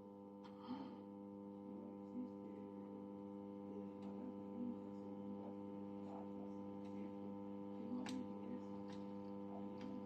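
Valve radio's speaker giving a steady low mains hum, a stack of tones strongest around 200 Hz, with a few faint light clicks. No station comes through while it is tuned; the repairer takes this for a fault between the power amplifier and the preamplifier stages.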